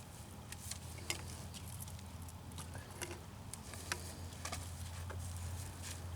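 Scattered faint clicks and taps from work on a union fitting on a buried water pipe as it is taken apart, over a steady low hum.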